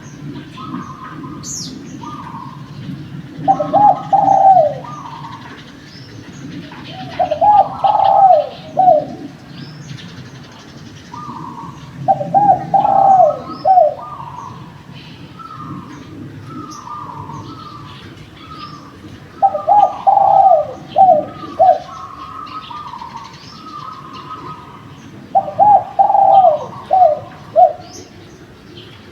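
Spotted dove (derkuku) cooing: five loud phrases of several coos each, coming every five to seven seconds, with fainter coo notes between them. Small birds chirp in the background over a steady low hum.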